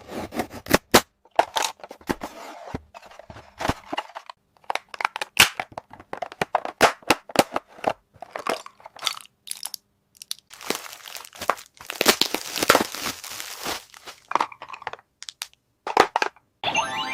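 Small plastic toys being unboxed by hand: crinkling plastic packaging and sharp clicks and taps of little plastic pieces, in separate bursts with short pauses.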